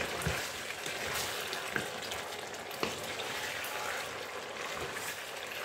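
Beef, onion and spring onion sizzling in a frying pan while a wooden spatula stirs them, with a few light knocks of the spatula against the pan.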